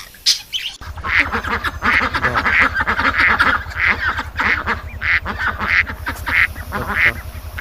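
A bird calling over and over, about a dozen harsh calls roughly half a second apart, over a steady low hum.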